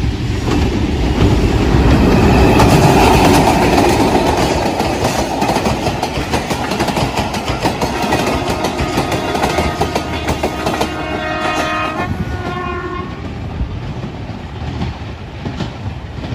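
Diesel-hauled passenger train passing at close range: a heavy rumble loudest as the locomotive goes by in the first few seconds, then the coaches' wheels clacking over the rail joints. A train horn sounds for a few seconds about halfway through, and the sound fades as the train moves away.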